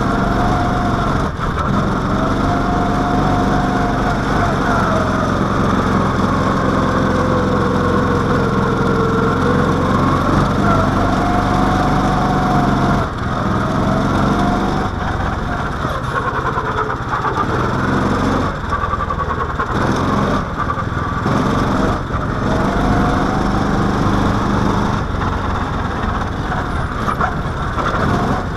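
Mini-baja off-road car's small single-cylinder engine running under load, with a whine over it whose pitch rises and falls several times as the car speeds up and slows.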